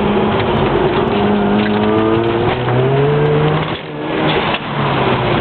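Mazda RX-7 rotary engine pulling under throttle, its pitch climbing, then dropping away as the throttle is lifted just before four seconds in, followed by a short rush of noise from the turbo's blow-off valve venting. The engine then carries on steadily.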